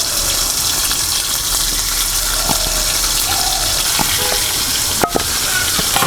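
Marinated chicken pieces sizzling in hot oil in a kadai: a steady, dense hiss, with a few light clicks and a sharper one about five seconds in.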